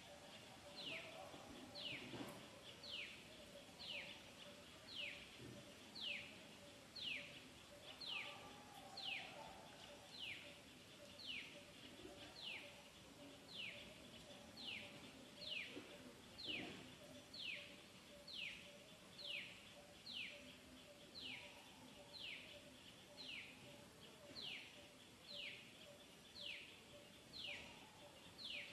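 A bird calling over and over, one short falling whistle about once a second, very evenly spaced, with a faint steady hum beneath it.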